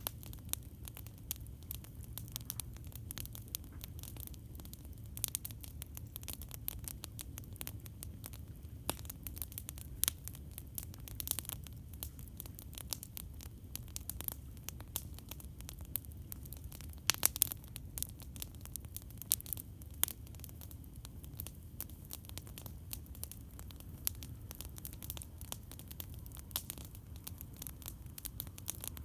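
Campfire crackling with dense, irregular pops and snaps over a steady low rumble, and a few louder pops past the middle.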